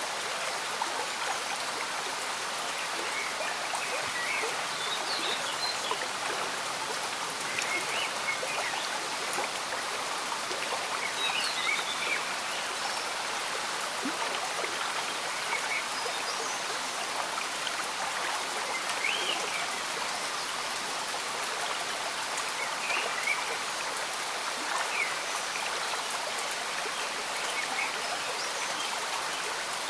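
Steady bubbling of a slow-moving stream mixed with gentle rain, with short high chirps scattered every few seconds over the water sound.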